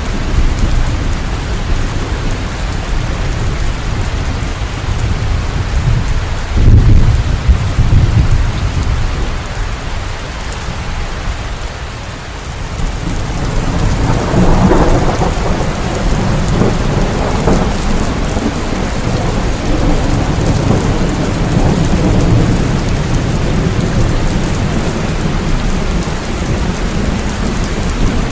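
Steady heavy rain with deep rolls of thunder. One loud rumble comes about seven seconds in, and a longer roll swells from about fourteen to eighteen seconds.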